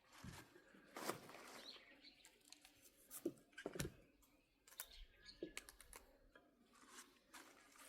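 Very quiet outdoor ambience with a few faint bird chirps and scattered soft clicks and knocks.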